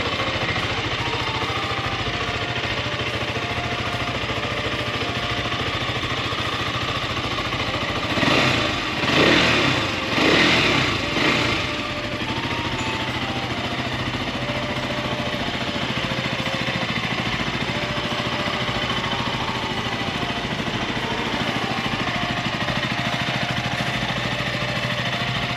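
KTM RC 200's single-cylinder four-stroke engine idling steadily, blipped a few times in quick revs between about eight and twelve seconds in, then settling back to idle.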